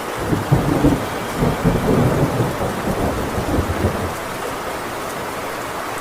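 A thunderclap rumbles over steady heavy rain, starting at once and dying away about four seconds in, leaving the rain alone.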